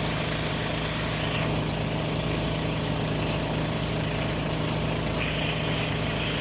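Small boat's engine running steadily, a constant low hum under a continuous hiss; the hiss shifts a little about a second and a half in and again near the end.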